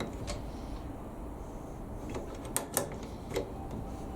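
Four short sharp clicks, two of them close together about two and a half seconds in, from hands working on a tumble dryer's parts and wiring.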